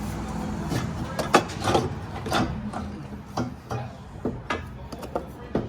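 Hand work on exhaust hardware: irregular clicks, taps and rubbing as the exhaust hangers are pinched together and worked onto their studs.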